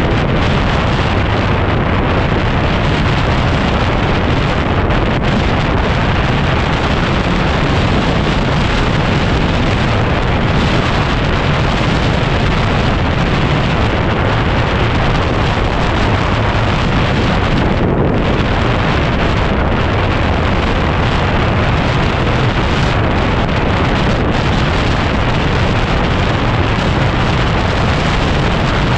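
Heavy wind noise buffeting the microphone of a 2010 Yamaha WR250R motorcycle being ridden, mixed with the bike's running noise. It is a loud, steady rumble and hiss.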